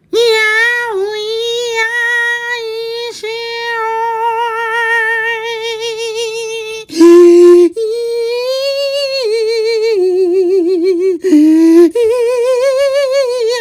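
A high voice singing or humming long held notes with a wavering vibrato. A brief, louder, lower note comes about seven seconds in, and another lower stretch comes near the end.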